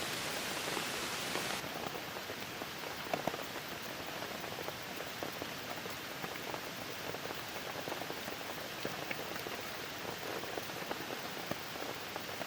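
Steady rain falling, an even hiss with scattered sharper drop hits close by.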